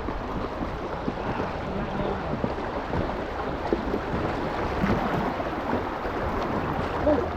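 Shallow river water rushing over rocks around an inflatable kayak, a steady noise with a few small knocks.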